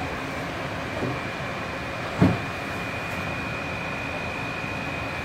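AirTrain JFK car, a Bombardier linear-induction-motor train, running along its guideway: a steady rumble with a steady high whine, a faint knock about a second in and a single thump just after two seconds.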